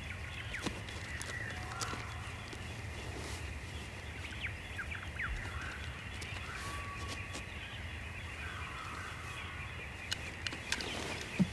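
Scattered bird calls and chirps over a steady low background rumble.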